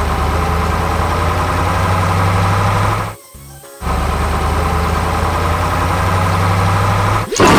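Heavy construction machine's engine idling steadily, dropping out for about half a second a little past the midpoint, with background music. A sudden loud clatter near the end.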